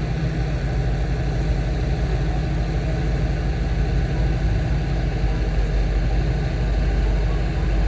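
Car engine idling at low revs, a steady low-pitched running sound that holds even throughout.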